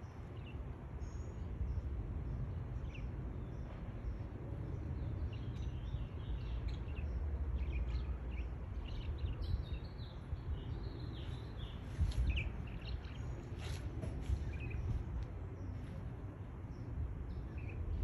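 Small birds chirping in short, scattered high calls, busiest in the middle, over a steady low outdoor rumble.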